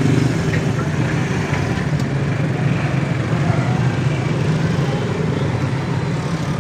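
A steady low engine hum under a noisy background, like a motor vehicle running.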